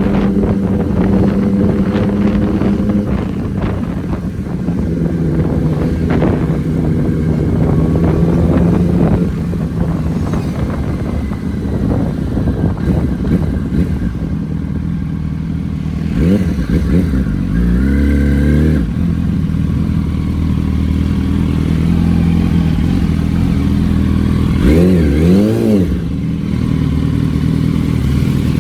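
A 2008 Yamaha YZF-R1's inline-four engine and exhaust run steadily under way. The engine pitch rises and falls sharply twice: once about sixteen seconds in and again near twenty-five seconds.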